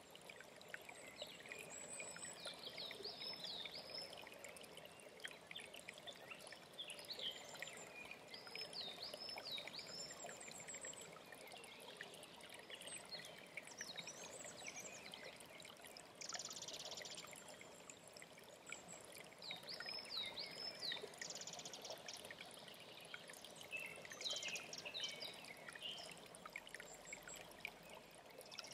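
Mountain stream flowing steadily, with songbirds singing over it: one bird repeats a short phrase of swooping high notes every several seconds, and two brief buzzy trills come in about two thirds of the way through.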